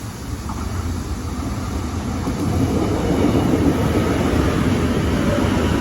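Subway train approaching. Its rumbling running noise grows louder over the first two to three seconds and then holds steady, with a faint whine near the end.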